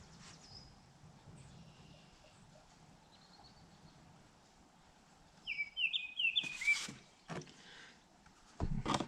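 A bird chirping, with faint calls early on and a quick run of about five sharp chirps a little past the middle. Several short knocks and rustles of handling follow, and the loudest of them come near the end.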